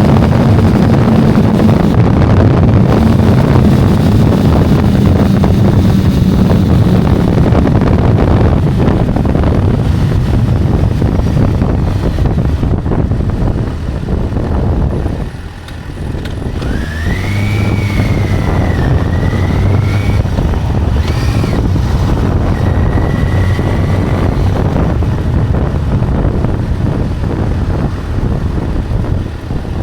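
Motorcycle at speed on the highway, heard from the rider's microphone: heavy wind noise over a steady engine drone from the Yamaha FZ6 S2's inline-four. About halfway through the noise drops briefly, then a wavering high whine comes and goes for several seconds.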